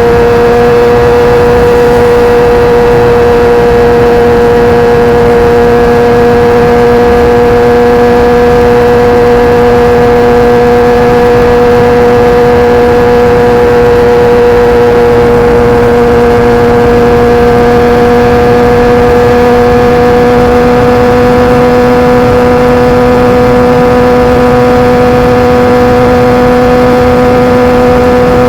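Kawasaki ZX-10R's inline-four engine through an SC-Project CRT carbon exhaust, held at steady high revs while riding, its pitch creeping slowly upward. Steady wind and road noise runs underneath.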